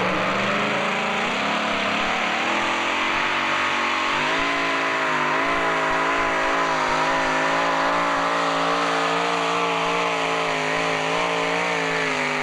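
Two-wheel-drive pulling truck's engine at full throttle under load during a pull. The revs climb over the first few seconds, then hold at a steady high pitch.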